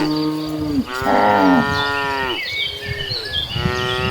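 Cows mooing in long, low, drawn-out calls that overlap one another. One fades out less than a second in, another runs from about one to two and a half seconds, and a third starts near the end. Short high chirps come in the gap between them.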